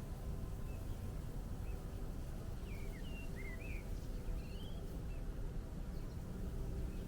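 Small birds calling: scattered short high chirps and quick swooping calls, with a brief wavering trill about halfway through, over a steady low rumble.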